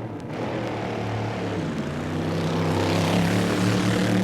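Drag-racing dragster engine running under throttle, its pitch and loudness climbing slowly.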